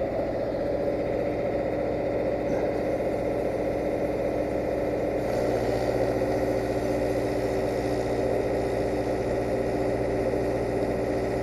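Engine-drive welding generator running steadily under load, together with the even hum of an AC TIG arc on aluminium. The hum steps up as the arc strikes at the start and grows a little brighter about five seconds in.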